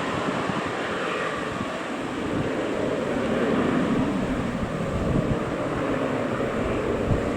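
Aircraft engines running as a plane passes, a steady roar with a tone that slowly sinks in pitch through the middle, with wind buffeting the microphone.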